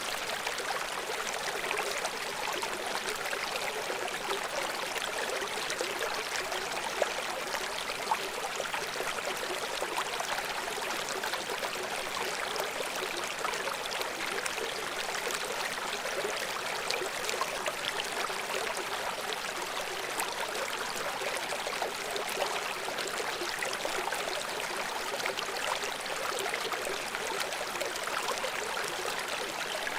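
River water flowing steadily over rocks: a continuous rushing and splashing with fine bubbling detail and little bass.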